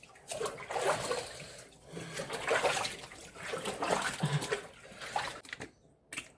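Bath water sloshing and splashing in uneven swells as a wet dog is washed. It drops away briefly near the end.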